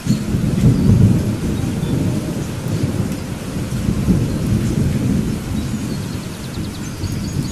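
A thunderstorm: thunder rumbling over steady rain. The deep rumble comes in suddenly, is loudest about a second in, and keeps rolling under the rain.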